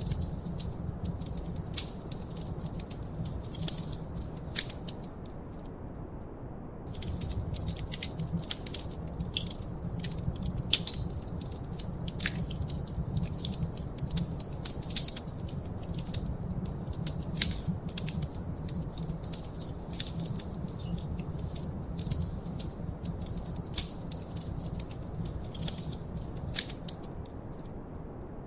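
Wood fire in a fireplace crackling, with many irregular sharp pops and snaps over a low steady rumble of the flames. The crackling briefly stops about six seconds in and again near the end, leaving only the rumble.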